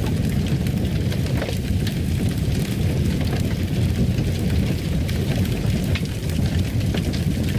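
Fire crackling in a fireplace: a steady low rumble with scattered pops and snaps.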